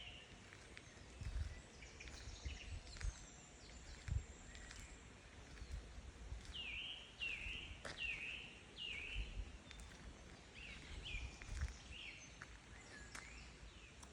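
Woodland dawn chorus: several birds singing at once, faint, with one bird repeating a downward-sweeping note about twice a second through the middle and others calling higher. A few low bumps of wind or handling on the microphone sit underneath.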